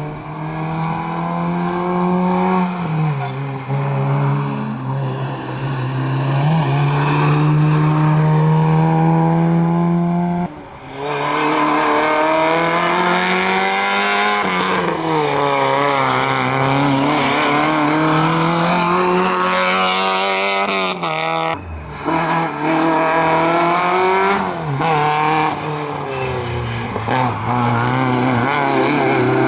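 Rally car engines at full attack on a stage: the engine note climbs as the car accelerates and drops back through gear changes and corners. The sound breaks off abruptly twice, about a third and two thirds of the way through, then picks up again.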